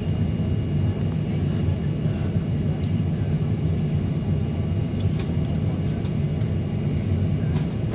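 Steady low rumble inside the cabin of a Boeing 737-900ER, from its CFM56-7B engines and airframe, with a few light clicks about two-thirds of the way through.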